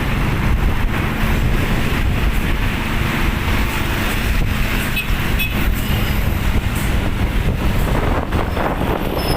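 Truck and road traffic running, a steady low rumble.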